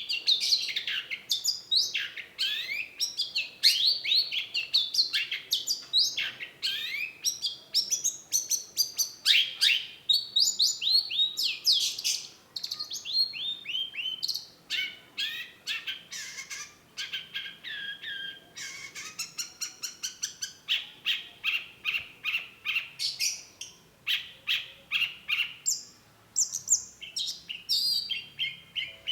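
Long-tailed shrike singing a rapid, varied song: quick falling whistled notes mixed with fast runs of chattering, repeated notes, with hardly a pause.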